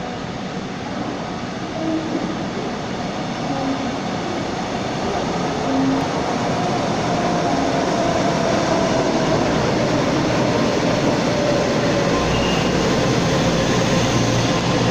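Taiwan Railways electric local train pulling into a station, its running noise growing steadily louder, with a faint whine that slowly falls in pitch as the train slows to stop.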